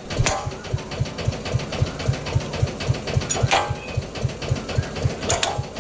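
An engine running with a steady low thump about four times a second, with three sharp clicks over it.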